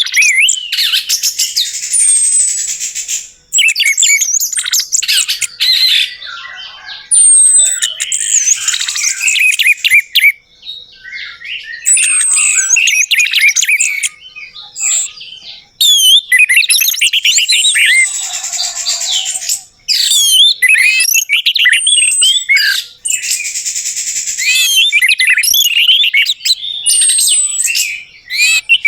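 Orange-headed thrush singing: loud, rapid, varied phrases of whistles and trills, in bursts of one to three seconds with short pauses between.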